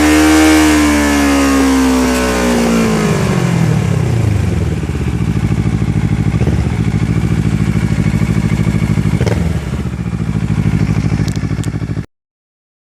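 Kawasaki Ninja 650's parallel-twin engine with a Two Brothers aluminum full exhaust, falling from a high rev back to idle over the first few seconds, then idling with a steady pulse. The sound cuts off abruptly near the end.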